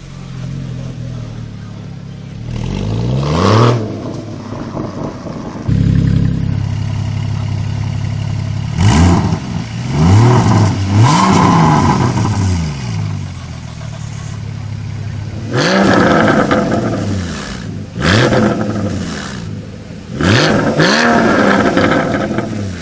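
Porsche Cayman GT4's 3.8-litre flat-six, through a Fabspeed Valvetronic aftermarket exhaust, idling and revved in quick blips. There are about eight sharp revs in three bunches, each rising and dropping straight back to idle.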